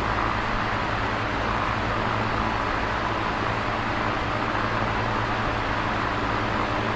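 Electric fan running steadily: an even rush of moving air over a low motor hum, with no change throughout.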